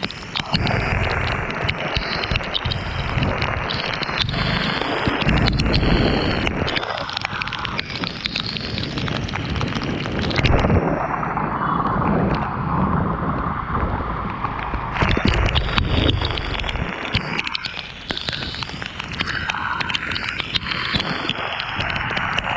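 Wind buffeting the microphone on a motorcycle ride in the rain, a loud uneven rumble that eases off briefly twice, with road and rain noise underneath.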